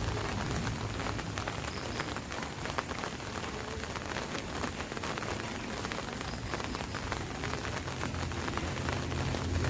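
Rain drumming on an umbrella, a dense patter of drops. A low rumble builds near the end.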